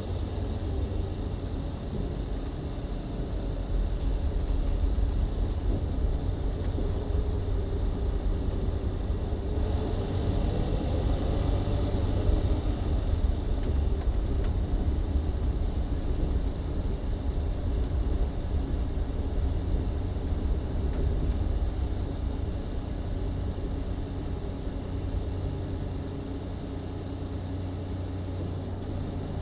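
Inside a Mercedes-Benz Citaro C2 LE MÜ Hybrid bus with a Voith automatic gearbox: a steady low diesel engine and road rumble under way. It grows louder about four seconds in, and the engine note rises as the bus accelerates around ten seconds in.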